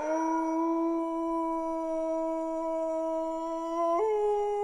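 Wolf howling: one long held note that steps up in pitch about four seconds in.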